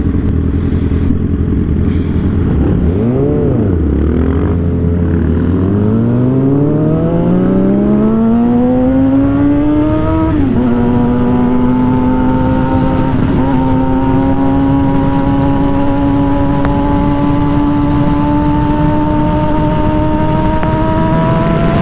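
Suzuki GSX-R 750 inline-four engine, fitted with an aftermarket exhaust, pulling under acceleration. It starts low with one quick rev blip about three seconds in, then climbs steadily in pitch for several seconds. The pitch drops suddenly at an upshift, and the engine then pulls on in a steady, slowly rising tone.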